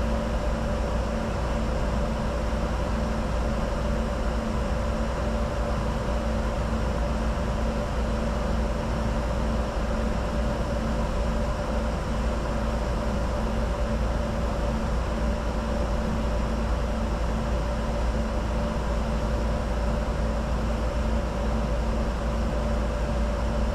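Steady flight-deck noise of a Bombardier Challenger 605 in descent: a constant rush of airflow over a low rumble, with a few steady hums running through it.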